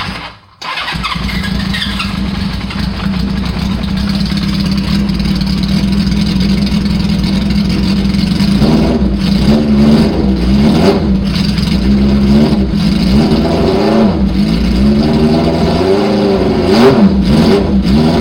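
1980 Honda CB650's air-cooled inline-four, through a four-into-one header with pod air filters, starting cold. It comes in about half a second in and runs steadily, then from about halfway it is blipped again and again, the revs rising and falling.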